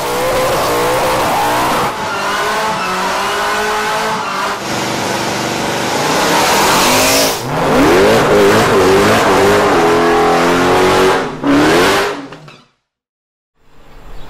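High-performance car engines revving hard, starting with the supercharged Ford Mustang doing a burnout with its tyres spinning. The sound jumps abruptly between clips several times, with the pitch of the engine rising and falling, and cuts out for about a second near the end.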